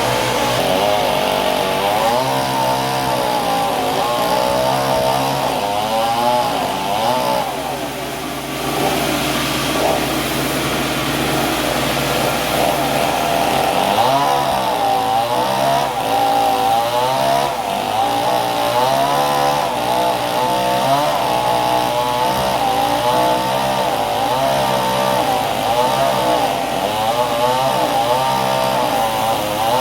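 Engine-driven saw cutting wood, its engine pitch wavering up and down as the load changes, with a brief dip about eight seconds in.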